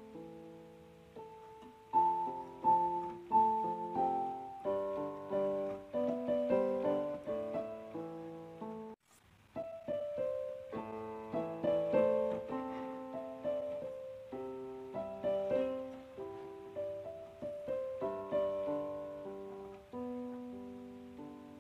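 Background piano music: a gentle melody of struck notes that ring and fade, with a brief break in the music about nine seconds in.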